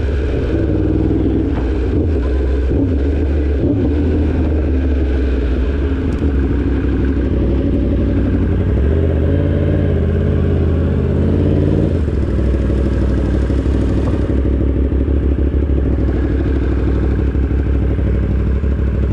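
2016 Yamaha R1's crossplane inline-four engine running while riding, its pitch rising and falling with the throttle around the middle.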